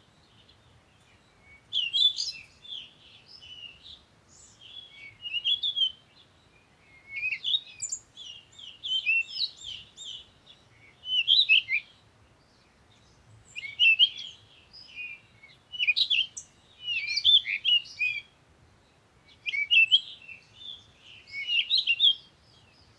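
Songbird chirping and twittering in quick high notes, in short phrases that come every two to three seconds with brief pauses between.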